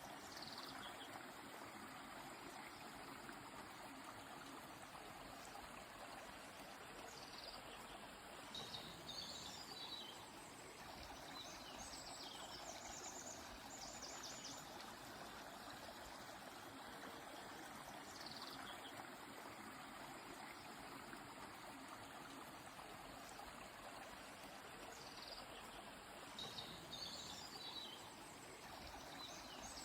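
A river flowing steadily and softly, with birds calling high above it every few seconds: falling sweeps, short note clusters and quick repeated trills.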